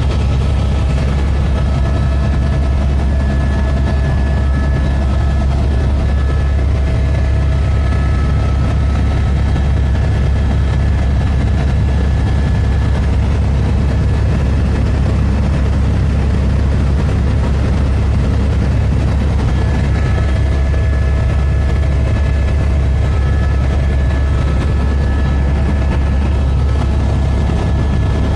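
Helicopter in flight: a loud, steady low drone of rotor and engine, with faint steady higher tones that fade out around the middle and return near the end.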